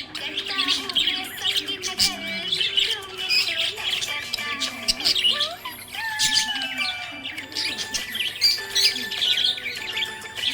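Pet budgerigars chirping and warbling continuously, many quick overlapping chirps with occasional squawks.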